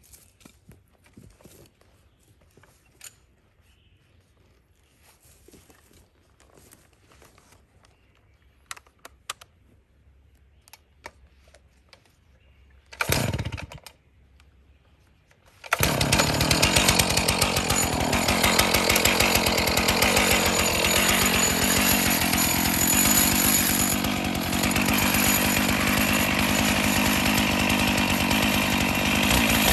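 Quiet scattered clicks and taps. About thirteen seconds in comes a short loud burst, and a couple of seconds later a Stihl MS461 two-stroke chainsaw on an Alaskan mill starts and runs loud and steady at high revs. Its pitch sags slightly now and then as the bar works through a cedar log.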